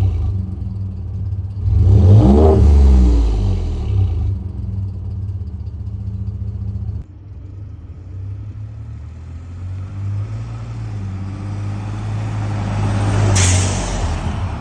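Ford F-150's 3.5-litre EcoBoost twin-turbo V6 exhaust through a Valvetronic valved muffler: one free rev about two seconds in, rising and falling, then idling. The exhaust gets suddenly quieter about seven seconds in, and a short rush of noise comes near the end.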